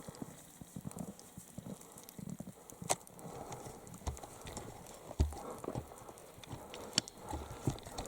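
Irregular footfalls and scuffs, with sharp knocks about three seconds in and again about seven seconds in.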